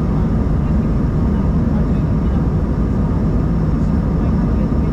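Steady cabin noise inside an Embraer 190-E2 airliner: an even low rumble of the jet engines with a fainter airflow hiss above it, unchanging throughout.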